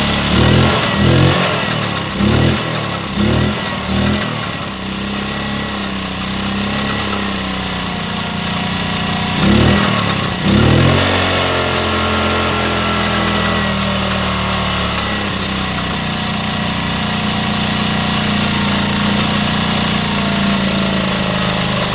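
1966 Honda P50 moped's small four-stroke single-cylinder engine warming up after a restart: the throttle is blipped several times in the first few seconds and again about ten seconds in, then it settles to a steady idle.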